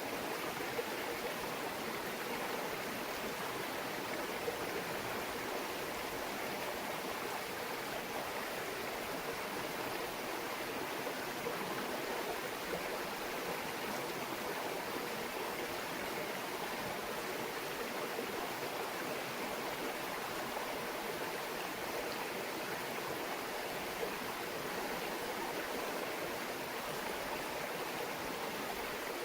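A small mountain stream babbling steadily over rocks.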